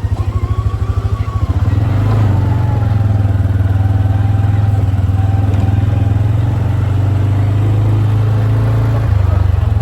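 Quad bike engine running as it is ridden, its pulsing low note picking up about a second and a half in and then holding steady.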